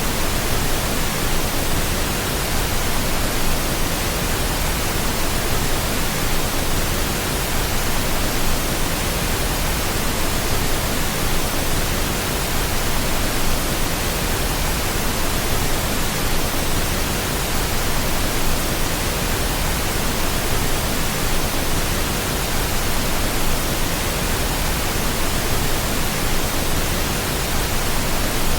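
Steady pink noise: an even, unchanging hiss across all pitches, played as a sleep sound for babies.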